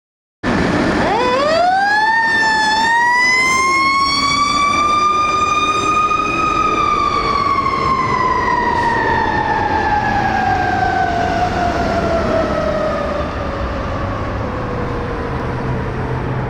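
Dallas fire apparatus siren winding up from a low pitch to a high wail over about six seconds, then slowly winding down through the rest, over the low rumble of the truck's diesel engine.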